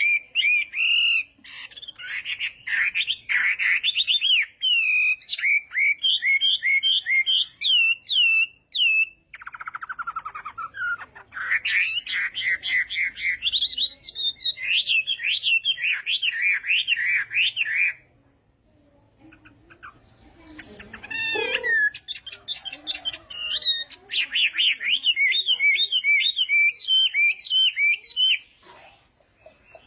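Chinese hwamei singing a loud, fast song of varied whistled and slurred notes, with a break of about two seconds roughly two-thirds of the way through. This is the competitive song that keepers play to train other birds' voices.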